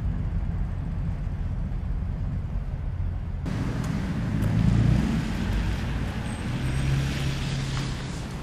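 Road traffic: a motor vehicle's engine rumbles low throughout. About three and a half seconds in, a louder rush of tyre and road noise sets in as a car passes.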